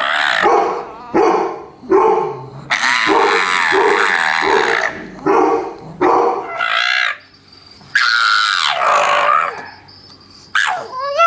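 A dog barking in short, repeated yaps, broken by long, wavering howling cries, with one more rising-and-falling howl near the end.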